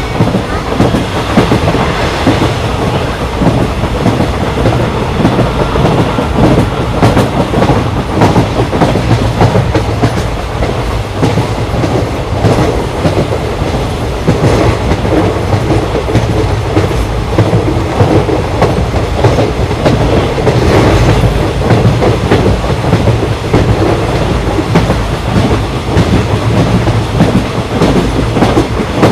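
Moving passenger train heard from on board: a continuous loud rumble of the coach, with the rattle and clickety-clack of the wheels passing over rail joints.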